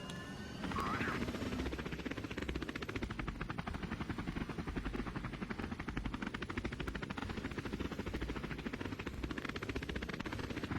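A Cessna 172's piston engine and propeller running with a rapid, even pulsing. The sound builds over the first two seconds and then holds steady.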